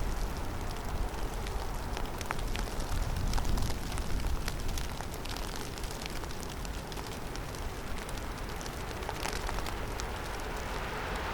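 Heavy snowstorm in a forest: a steady rush of wind with a low rumble, swelling about three to four seconds in, and scattered small ticks of snow or ice striking.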